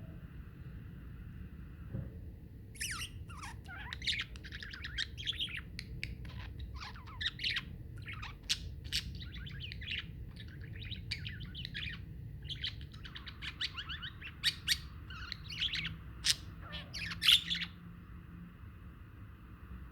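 Budgerigars chattering: a run of rapid chirps and warbles that starts about three seconds in and stops shortly before the end, over a steady low hum.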